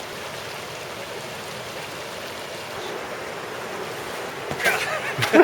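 Creek water rushing steadily, an even hiss of flowing water, with a brief voice near the end.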